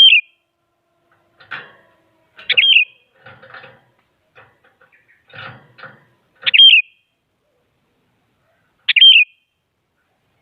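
Sooty-headed bulbul (kutilang) calling: four loud, short, sharply swooping whistled notes spaced a few seconds apart, with fainter scratchy rustling between them.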